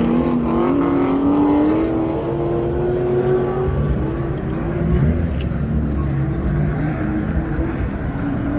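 Car engine running under throttle, its pitch climbing steadily over the first three or four seconds, then falling back to a lower, rougher mix of engine sound.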